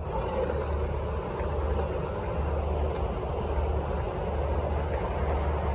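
Steady rumble and hiss of wind buffeting the microphone, with road noise, while riding an electric rental scooter.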